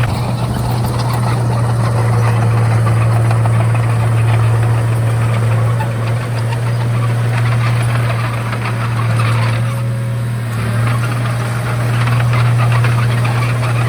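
Komatsu D31A crawler bulldozer's diesel engine running steadily, a constant low drone with a rattling noise above it that swells and eases as the machine works.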